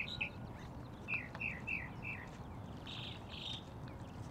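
Small songbird singing: a run of four quick, falling chirps, then two short buzzy notes about three seconds in, over a faint low outdoor rumble.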